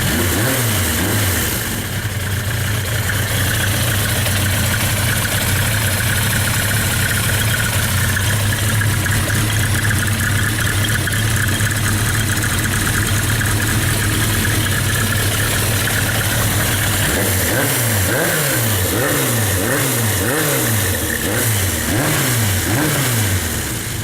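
1986 Suzuki GSX-R750's inline-four engine, with Yoshimura cams, 1100 carburettors and a full Yoshimura exhaust, running steadily just after being started. About two-thirds of the way through it is blipped repeatedly, eight or so quick revs that each fall away fast.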